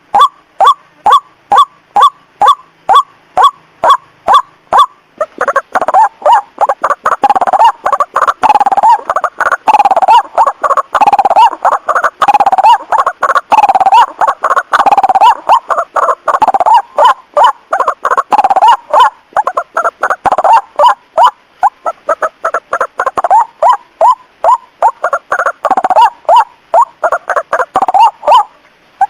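White-breasted waterhen lure recording: the ruak-ruak call repeated evenly about three times a second, then from about five seconds in several birds calling over each other in a dense chorus that thins back to a regular series near the end.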